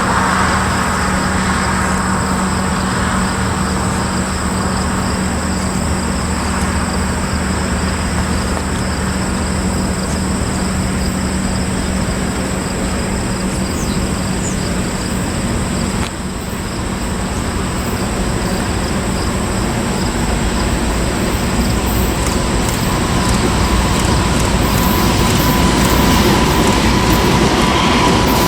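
Freight train rolling past, a steady rumble of railcars and wheels on the rails, with a faint thin wheel squeal in the last several seconds.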